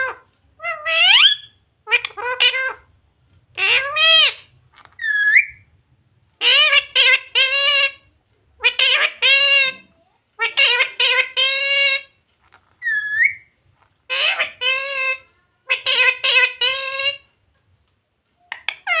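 Ringneck parrot talking in a high-pitched voice, repeating short mimicked phrases every second or two, with a couple of brief rising squawks between them.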